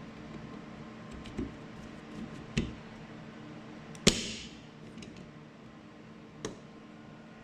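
A handful of sharp plastic clicks from fitting a rear wiper blade onto its arm, the loudest a snap about four seconds in, over a steady hum.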